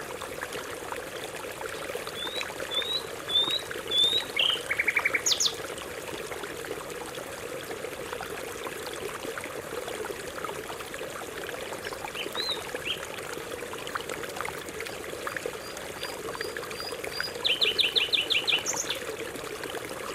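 Canary singing in short bursts over steady running stream water: a string of quick chirps and a fast trill early, a couple of chirps midway, and another rapid trill near the end.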